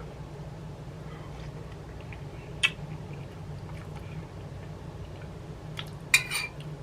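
Spoon clinking against a soup bowl: one sharp click a few seconds in and a short rattle of clicks near the end, over a steady low hum.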